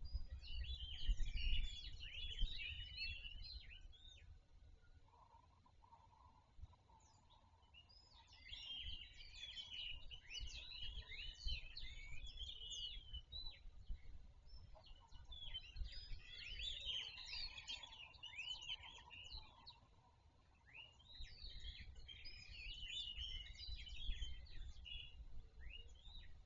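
Many small birds chirping and chattering together in four lively bouts with quieter gaps between, over a low rumble.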